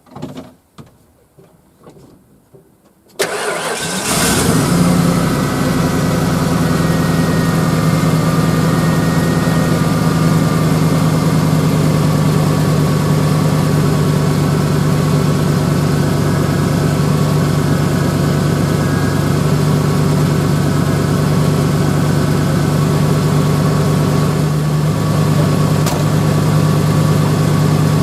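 Ford F-150 pickup engine starting about three seconds in after a few faint clicks, catching at once and settling into a steady idle.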